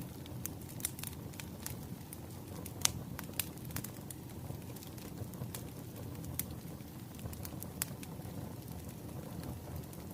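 Wood fire crackling: a steady low rumble of flames with irregular sharp pops and snaps, one louder pop about three seconds in.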